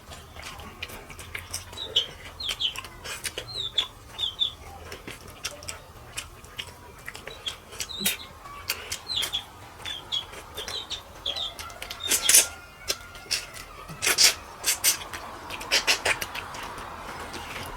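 Small birds chirping repeatedly in short, high calls, over scattered sharp clicks and smacks.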